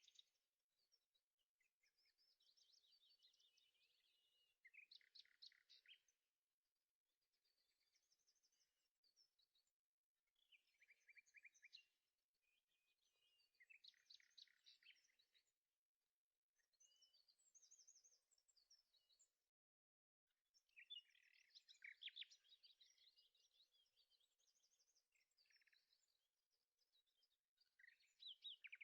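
Faint birdsong: repeated phrases of quick chirps and trills with short pauses between them.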